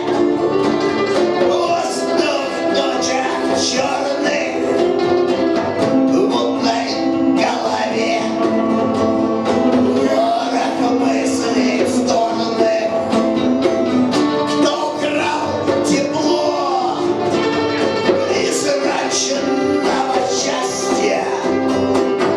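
A band playing live, guitar-led music with a steady beat, in the middle of a song.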